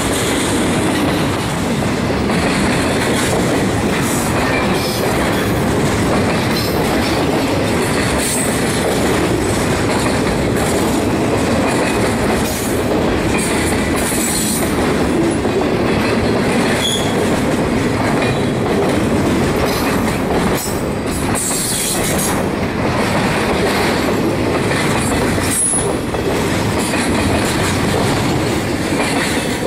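Double-stack intermodal freight train rolling past at close range: a loud, steady rumble of well cars on the rails, with wheels clicking over the track and a few brief high wheel squeals.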